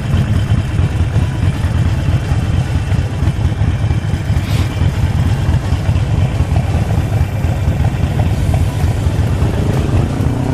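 Harley-Davidson Forty-Eight Sportster's air-cooled V-twin running steadily, its deep rapid exhaust pulse heard from the rider's helmet camera. There is one short higher-pitched sound about four and a half seconds in.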